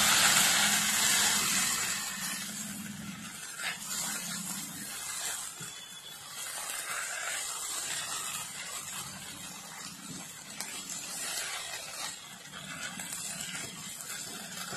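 Sauce-coated cauliflower sizzling in a hot non-stick kadai as it is stirred and tossed with a silicone spatula. The sizzle is loudest for the first two seconds, then settles to a softer hiss with a few light knocks.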